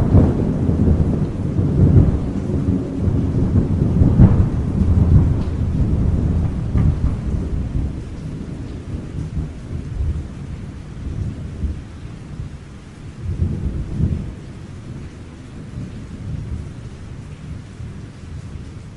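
Thunder rolling over steady rain: a loud, deep rumble with sharper peals about two and four seconds in, slowly dying away, swelling once more about two-thirds of the way through, then fading out near the end.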